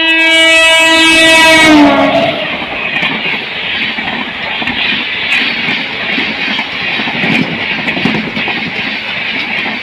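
Passenger train's horn sounding for about two seconds, its pitch sliding down as it ends. It is followed by the steady rushing rumble of the coaches rolling past on the rails.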